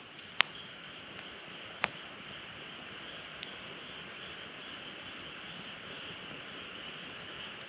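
Wood fire burning in a fire pit, crackling with two sharp pops in the first two seconds and a few fainter ticks, over a steady high hiss.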